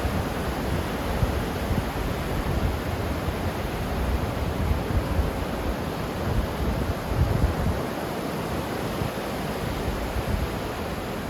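Ocean surf: a continuous rush of waves washing on a shore, with an uneven low rumble of wind on the microphone.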